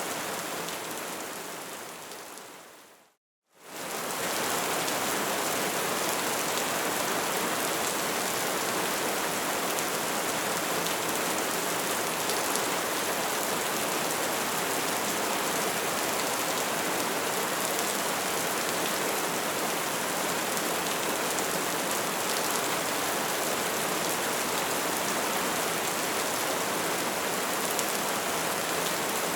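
Crackling fire ambience: a steady hiss dotted with small crackles. It fades out over the first three seconds to a brief moment of dead silence, then fades quickly back in and runs on evenly.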